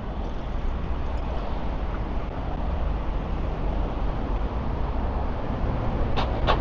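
Steady city-street traffic noise: a continuous rumble of passing vehicles. Two short sharp clicks come near the end.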